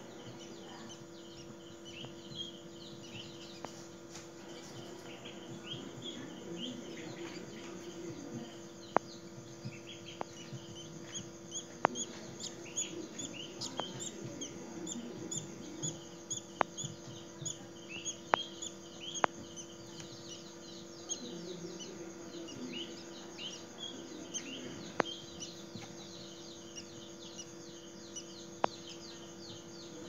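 Small birds chirping steadily, many short, high, downward-sliding chirps. A steady low hum runs underneath, with sharp clicks now and then.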